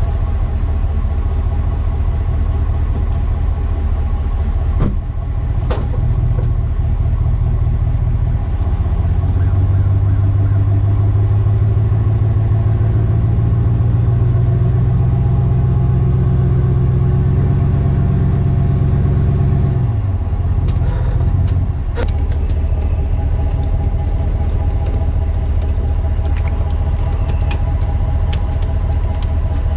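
A vehicle engine running steadily, working harder and louder for about ten seconds in the middle before easing back. There are a few sharp knocks along the way.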